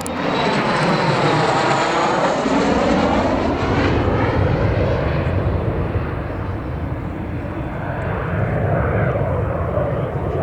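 MiG-15UTI jet trainer's turbojet flying past low, a loud continuous jet noise with a sweeping, phasing swish in the first half as it passes closest, then carrying on loud as it moves away.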